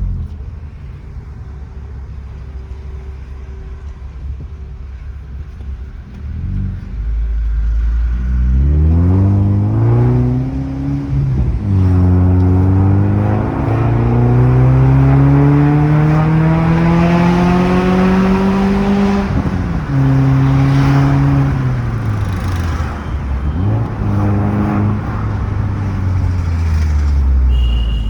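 2018 Suzuki Swift with a loud exhaust: the engine runs at a low, steady idle for the first several seconds, then pulls away. Its note rises steadily and drops back several times, as at gear changes, climbing longest through the middle.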